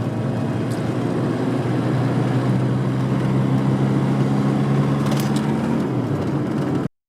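Car driving at a steady speed, heard from inside the cabin: steady road noise with a low, even engine hum. It cuts off abruptly near the end.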